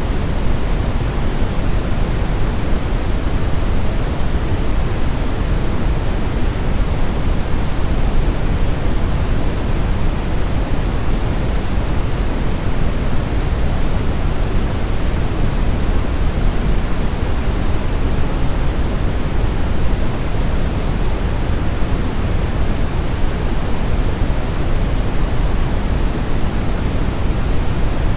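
Steady brown noise: an even, unchanging hiss-like rumble with most of its weight in the low end, fading off toward the highs.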